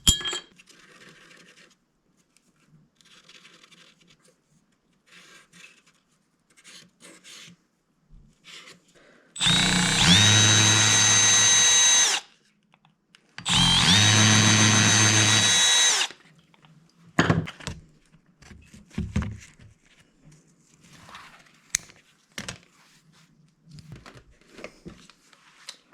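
Electric drill run twice for about two and a half seconds each, spinning up to a steady whine and then stopping, while drilling out a homemade gasket for an EGR block-off plate. Light handling noises and a few sharp knocks come before and after the runs.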